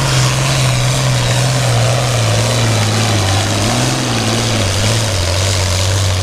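International Harvester 966 pulling tractor's engine running at full throttle under load as it drags the weight sled. The engine note drops in pitch in steps, about halfway through and again near the end, as the sled loads it down.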